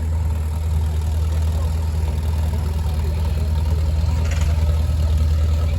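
Antique farm tractor engine idling steadily with an even low rumble.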